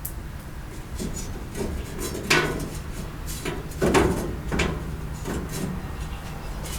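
Knocks and scrapes of hand work on a van's sheet-metal front end as screws are taken out by hand. Sharp knocks come a little over two seconds in, around four seconds in (the loudest) and again just after, over a steady low hum.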